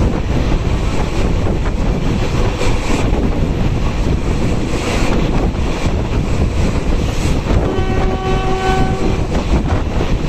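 Passenger coach of a moving train heard from its window: a steady rumble of wheels on rail with faint clicks and wind on the microphone. About three-quarters of the way through, a locomotive horn sounds once for about a second and a half.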